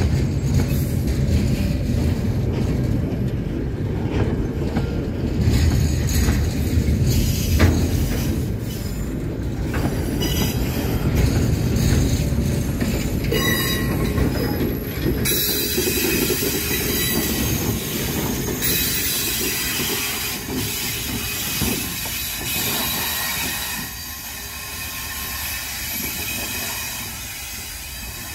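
Loaded coal wagons rolling past at a crawl of about 10 km/h on old, poorly maintained branch-line track: a steady low rumble of wheels and bogies. From about halfway through, high-pitched wheel squeal joins in, and the sound fades near the end as the last wagons pass.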